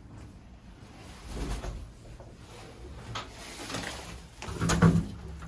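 Scuffling and knocking, with a cluster of louder knocks near the end.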